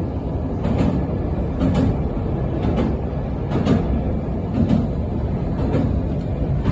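Passenger train running along the track: a steady low rumble with a sharp clack about once a second as the wheels pass over the rail joints.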